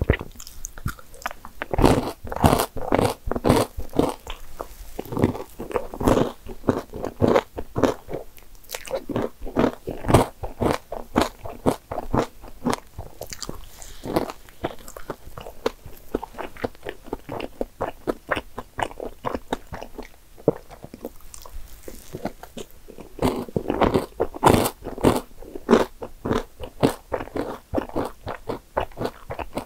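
Eating mouth sounds: chewing soufflé pancake topped with cream and caramelized nuts, with quick runs of crisp crunches from the candied nuts. The crunching is busiest near the start and again about three-quarters of the way through.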